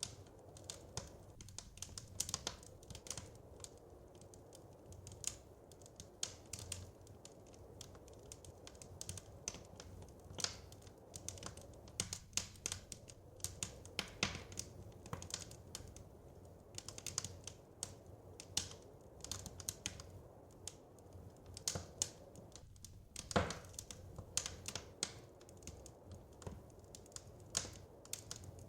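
Wood fire crackling: a dense, irregular run of small sharp pops and ticks, with one louder pop about two-thirds of the way through, over a faint low steady rumble.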